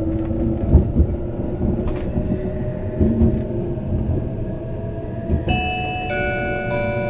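E657 series limited express running on the rails, heard from inside the car: a steady low rumble with a few thumps from the wheels over rail joints. About five and a half seconds in, the train's onboard chime melody starts, a run of clear notes in steps, the signal that an announcement is about to follow.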